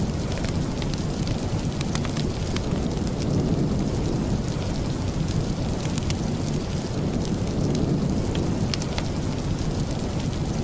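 Steady rain with a deep, continuous low rumble and many scattered sharp ticks of drops.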